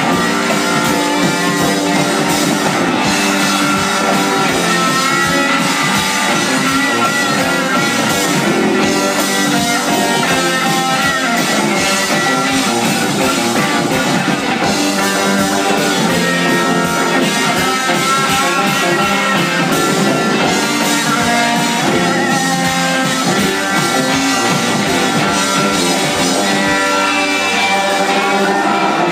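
Rock band playing, with electric guitar lines prominent over drums.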